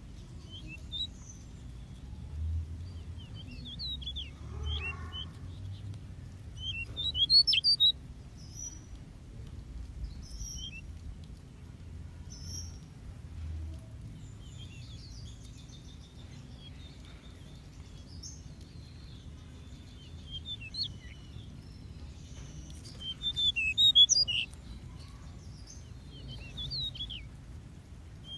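Small aviary birds chirping: scattered short, high chirps, with two louder flurries about a quarter of the way in and again near the end, over a low steady rumble.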